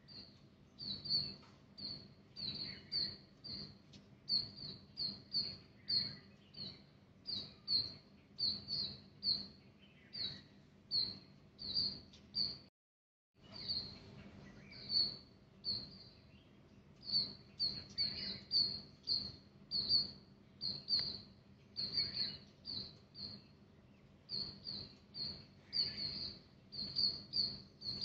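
A small bird chirping over and over, short high chirps about twice a second. The chirping cuts out completely for about half a second midway.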